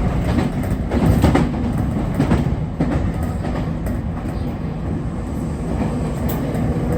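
JR Kyushu 811 series electric train running along the line, a steady rumble of wheels on rail with a few clacks over rail joints in the first half.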